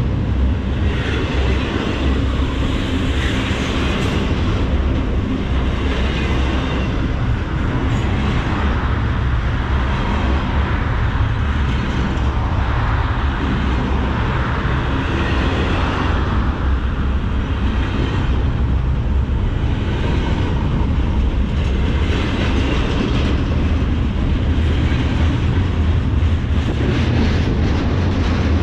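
Norfolk Southern freight train rolling past: a steady, loud rumble of steel wheels on rail, with the clickety-clack of the cars going over rail joints.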